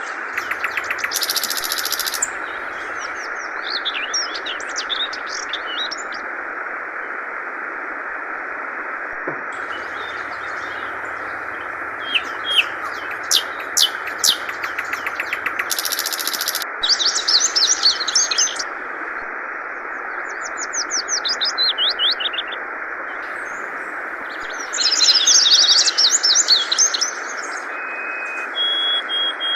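Yellow-vented bulbul (trucukan) calling in repeated bursts of quick chirps and rattling trills, over a steady rush of flowing water.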